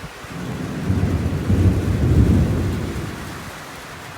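A roll of thunder that builds about a second in, rumbles deeply for a couple of seconds and fades away, over the steady hiss of light rain.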